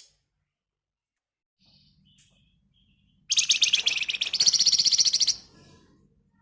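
Flamboyan (wergan Jawa) songbird giving a few faint chirps, then a loud two-second trill of very rapid, closely packed notes, the dense rattling 'ngebren rapat' song, which steps up in pitch halfway through.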